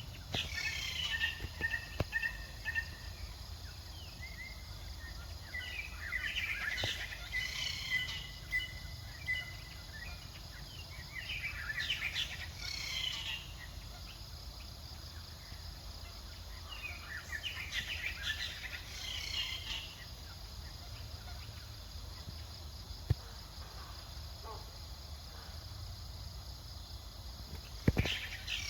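Outdoor ambience of high chirping calls in bursts every few seconds, over a steady low rumble, with a few sharp clicks.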